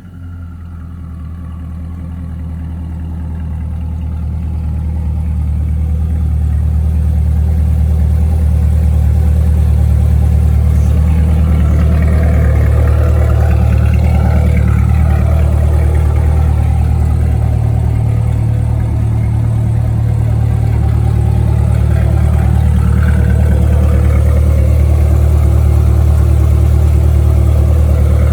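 Twin-turbo C8 Corvette V8 idling steadily through a custom exhaust, growing louder over the first several seconds and then holding an even, deep idle.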